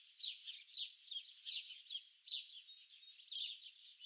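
Birds singing: a dense chorus of quick, high chirps, many falling in pitch, overlapping several times a second.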